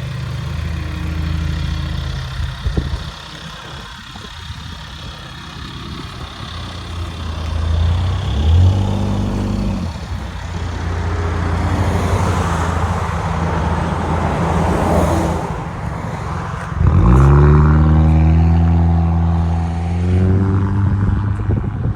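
2022 Honda Accord Sport's 2.0-litre turbo four-cylinder running through a modified exhaust, accelerating twice, about eight seconds in and again about seventeen seconds in. Each time the engine note climbs quickly and then holds steady.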